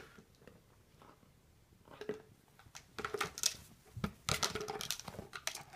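Plastic catnip jar clattering and scraping as a Goffin cockatoo wrestles it: irregular knocks and scrapes that start about two seconds in and crowd together in the second half.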